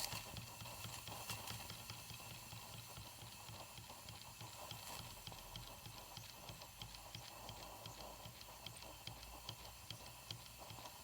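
Small live-steam model engine, a Wilesco D3 combined with a Microcosm M81 beam engine, running with a fast, light, regular ticking.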